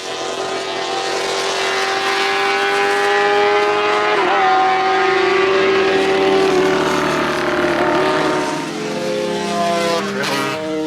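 Motorcycle engine running hard on a race circuit, its pitch stepping and wavering with throttle and gear changes and then falling away. A second engine note comes in near the end.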